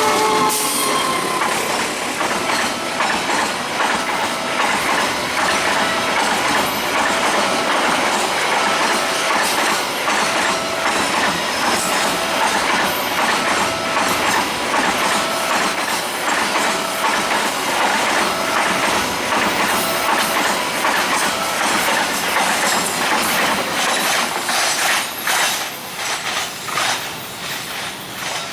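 A train passing close by at speed over a level crossing, its wheels clattering over the rail joints, while the crossing's warning bell rings over and over. The passing fades toward the end.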